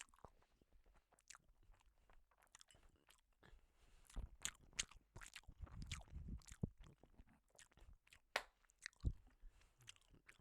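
A person chewing a mouthful of noodles close to the microphone: faint, irregular mouth clicks and smacks.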